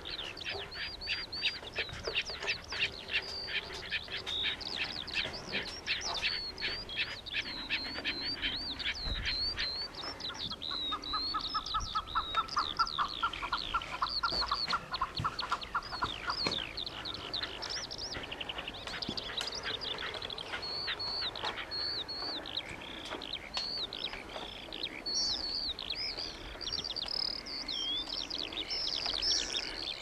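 Songbirds chirping and singing: many short, quick high notes throughout, with a fast trill of lower notes for several seconds in the first half.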